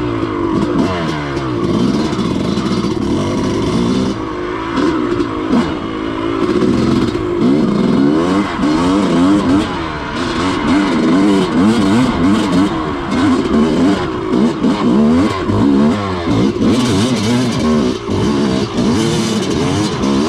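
Dirt bike engine revving hard under load on a steep, rutted hill climb. Its pitch rises and falls over and over as the throttle is worked, with knocks and rattles from the bike over the ruts.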